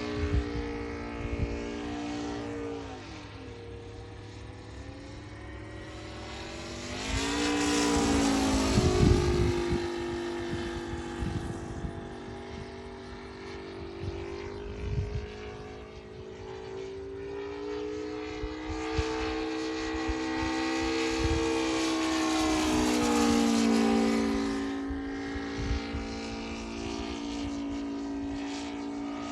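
ASP 400 radial glow engine of an RC Yak 55 running in flight, its pitch falling and rising as the plane passes, loudest at two passes, about a third of the way in and again past the middle. Wind rumbles on the microphone now and then.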